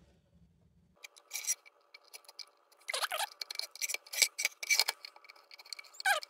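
Metal clicks and scrapes as thin tin parts of a hot-blast lantern's bail lock are bent back into place by hand or with a tool, with two short falling squeaks, one about three seconds in and one near the end.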